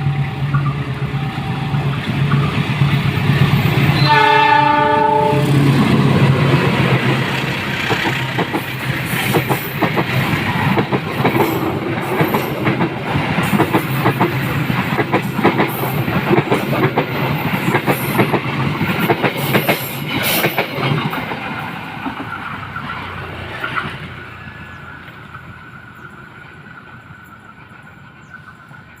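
Diesel locomotive engine running hard as the train pulls away, with one horn blast about four seconds in. The train then rolls past with its wheels clattering over the rail joints, and the sound fades away near the end.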